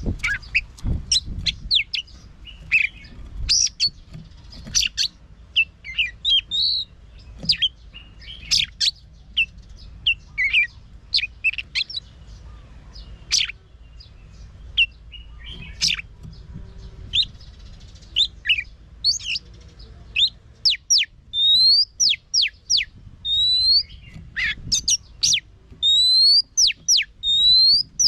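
Oriental magpie-robin singing a varied song: a steady stream of clear whistles, sharp quick notes and slurred rising notes, with phrases repeated in quick succession in the second half.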